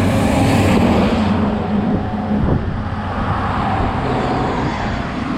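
Road noise from riding a bicycle beside traffic: a steady low rumble with an engine hum from nearby vehicles, and a rush of hiss in the first second or so.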